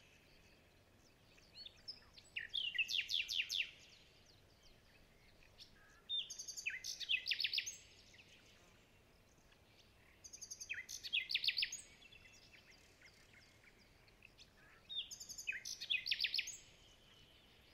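A songbird singing the same short phrase four times, about every four seconds. Each phrase is a quick run of sharp, high notes lasting a second and a half or so, with faint background hiss in between.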